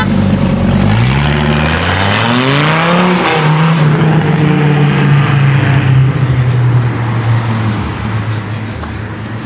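A loud performance car engine accelerating hard. Its pitch climbs for about two seconds, drops back at an upshift, then holds and slowly sinks as the car pulls away and fades.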